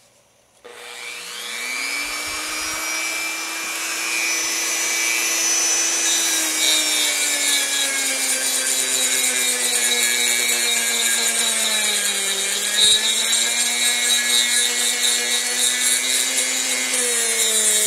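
Dremel rotary tool with a sanding drum smoothing wooden grips: the motor spins up about a second in to a steady whine, over the rasp of the drum on the wood. Its pitch dips a little around two-thirds of the way through and again near the end.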